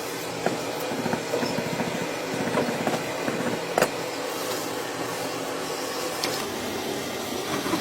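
A small electric motor running steadily with a whir, with a few light clicks along the way.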